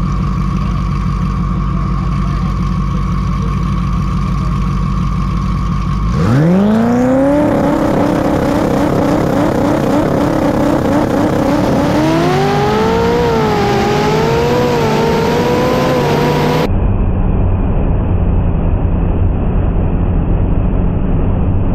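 A race car's engine idles at the start line, then launches at full throttle about six seconds in, its pitch sweeping sharply up and running hard at high revs, wavering as it climbs. Near the end the sound cuts abruptly to a duller, muffled engine and road noise.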